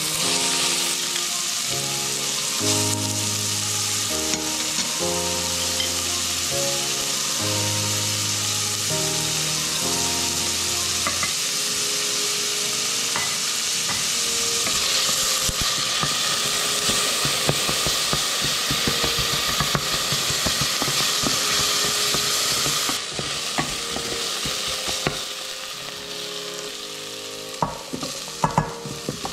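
Diced onion sizzling in hot oil in a stainless steel saucepan, a steady hiss that starts as the onion goes in, with light clicks of stirring from about halfway. Near the end, chunks of carrot drop into the pan with a few sharp knocks.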